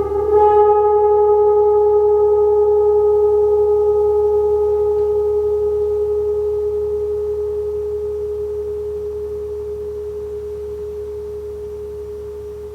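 A resonant metal instrument struck softly, ringing with one clear, steady tone and a few fainter overtones, slowly fading.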